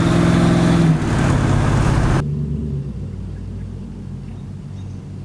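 2002 5.3L Vortec V8 in a 1977 Ford F150 held at high revs with a steady pitch during a burnout. About a second in the revs drop. About two seconds in the sound cuts sharply to a quieter low rumble.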